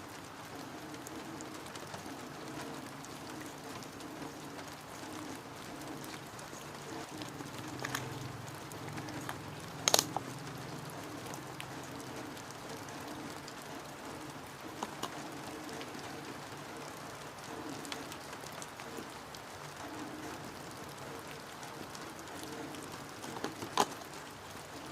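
Steady rain falling, with scattered sharp drip or knock sounds, the loudest about ten seconds in and another near the end.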